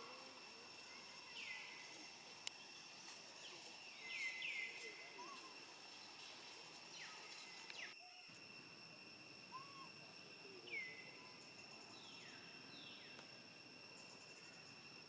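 Faint outdoor ambience: a steady high insect drone, with short high chirps that fall in pitch scattered through it, singly or in quick pairs.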